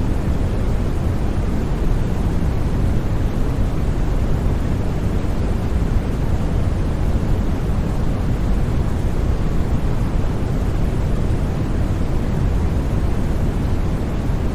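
Steady white noise for sleep: an even, unbroken rushing hiss with its deep rumbling end strongest, without any change or separate sound.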